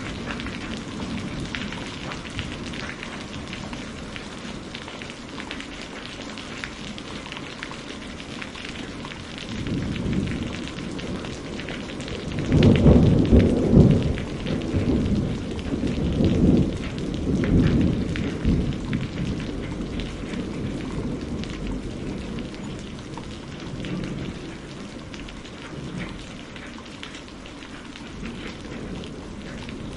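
Steady rain falling, with a long roll of thunder that builds about ten seconds in, is loudest a few seconds later and rumbles away over several seconds.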